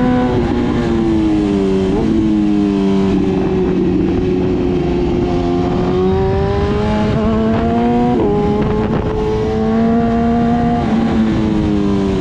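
BMW S1000RR's inline-four engine running under way, its pitch sliding down and up with the throttle. The pitch jumps up suddenly about two seconds in and again about eight seconds in.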